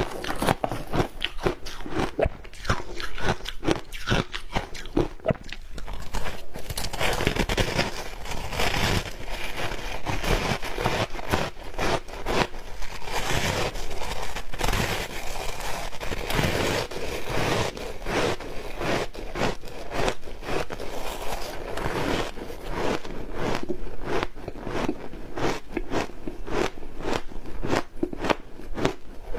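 Ice coated in matcha powder being bitten and chewed close to the microphone: a continuous run of sharp crunches and cracks, packed more densely through the middle stretch.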